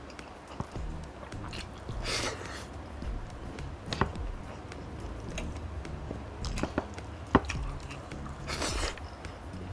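Close-miked eating sounds: chewing and mouth smacks as rice is eaten by hand. There are several sharp clicks, and two short noisy bursts about two seconds in and near the end.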